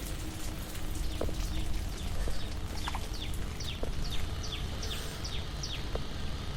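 A bird calling a quick series of short, high, falling notes, about two to three a second, over a low steady rumble.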